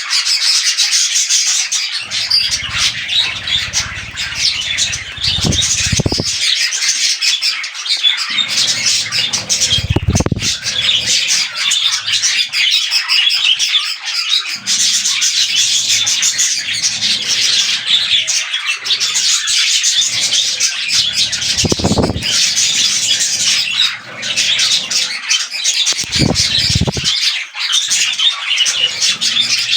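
Budgerigars chattering and warbling without pause, a dense run of quick squawks and chirps, with a few low thumps along the way.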